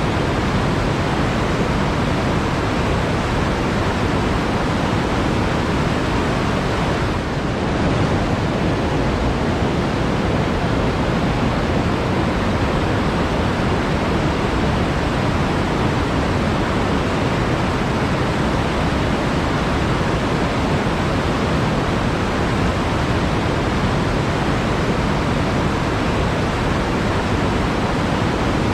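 Water rushing steadily over rocks in a forest stream or small waterfall, a dense, even flow with no break.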